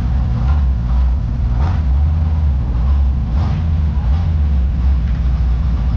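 A vehicle's engine running with a deep, steady low rumble.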